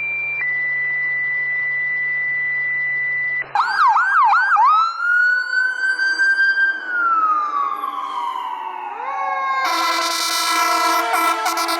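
A steady high electronic tone, then, about three and a half seconds in, an emergency vehicle siren starts abruptly: a few quick yelp cycles, then a long wail that rises and slowly falls. Near the end a loud horn with many steady pitches sounds over the siren.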